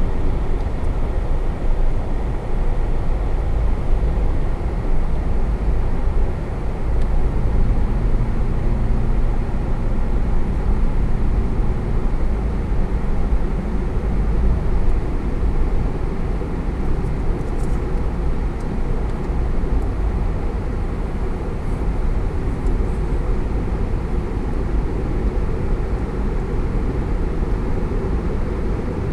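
Steady rumble of road noise from a car being driven, strongest in the low end and with no change throughout.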